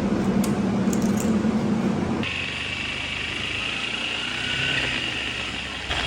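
Motorbike engine running, with the sound changing abruptly about two seconds in and again near the end.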